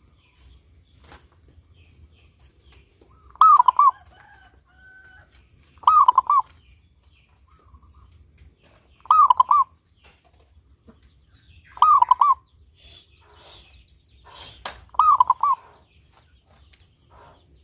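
Zebra dove (perkutut) singing: one short phrase of quick rolling coos, repeated five times about every three seconds.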